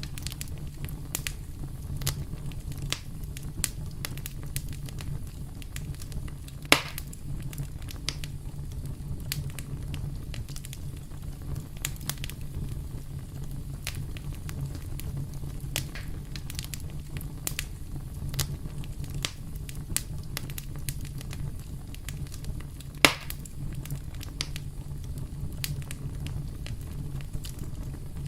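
Wood campfire crackling steadily, with scattered snaps over a low steady rumble. Two louder pops stand out, one about a quarter of the way in and one about four-fifths of the way in.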